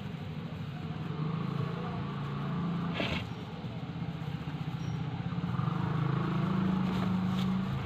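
A motor engine running steadily in street traffic, its low drone growing louder in the second half, with a sharp click about three seconds in.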